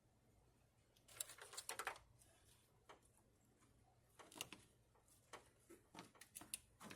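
Faint scattered clicks and knocks of hands and tools working on a truck's engine bay: a cluster about a second in, then several more single taps in the second half.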